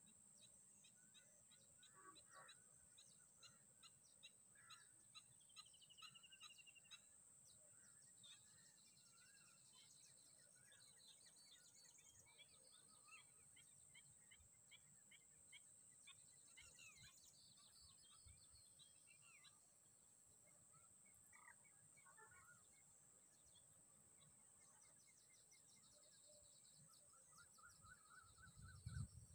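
Faint bird calls: scattered chirps and short trills from several birds, over a steady high-pitched hiss. A low thump near the end.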